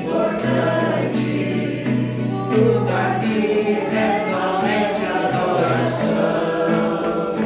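A group of voices singing a Christian worship song, with steady held low notes underneath.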